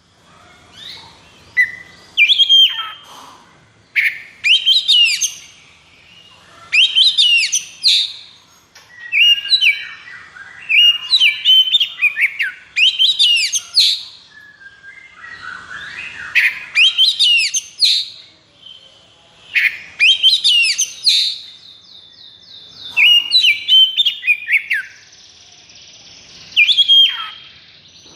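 Oriental magpie-robin (kacer) singing a string of loud, varied phrases of fast whistled and rattling notes, each phrase a second or so long with short pauses between. Partway through, a buzzy, grating trill is heard. This is the aggressive, high-energy 'konslet' song used to rouse other kacer into singing.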